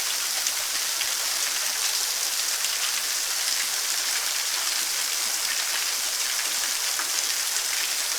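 Steady rushing water of a waterfall, an even, unbroken hiss.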